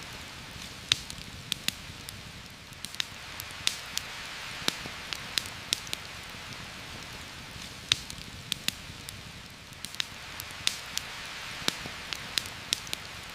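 Heavy rain falling steadily, with sharp, irregular pops and crackles from a campfire, a few every second.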